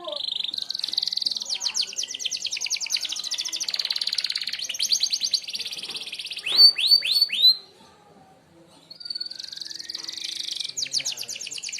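Merlok canary singing fast, rattling trills, with four loud falling whistled notes about two-thirds of the way through. The song breaks off briefly, then the trilling picks up again near the end.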